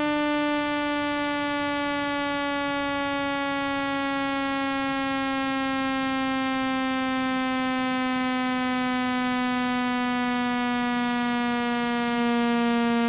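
Electronic speaker-cleaning tone, a steady buzzy tone rich in overtones, gliding slowly down in pitch; it is played to shake water and dust out of a phone speaker. It gets slightly louder near the end.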